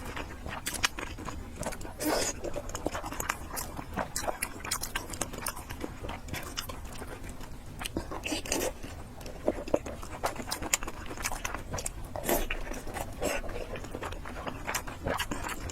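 Close-miked eating: wet chewing and slurping of fried noodles and pork, with many small mouth clicks and a few brief louder slurps.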